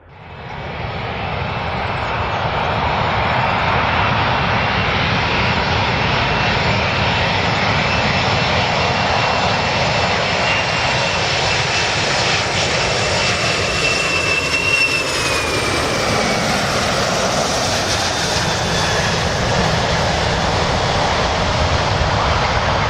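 Airplane engines running loud and steady, fading in over the first couple of seconds, with a high whine over the noise that falls in pitch about fifteen seconds in.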